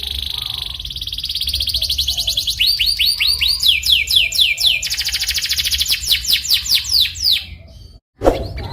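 Domestic canary singing in rolling trills of fast repeated notes, broken by a run of downward-sweeping whistled notes in the middle. Near the end the song fades, cuts out for a moment, and starts again abruptly.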